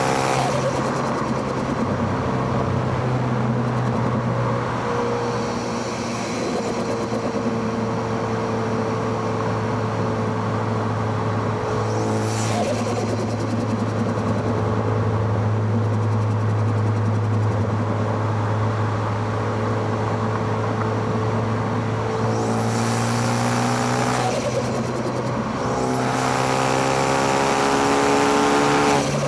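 Four-cylinder car engine and exhaust under way on a twisty road, heard from microphones at the intake and exhaust. The revs fall back about a second in and run fairly steady through the middle. In the last few seconds they climb, dip briefly, and climb again before dropping off sharply at the very end.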